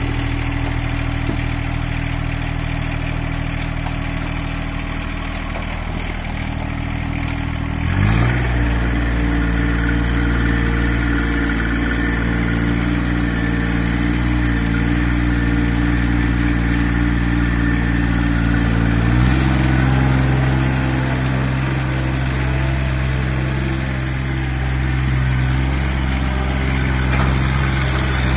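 A motor-vehicle engine running steadily under load. Its pitch rises about eight seconds in and steps up again a little after nineteen seconds.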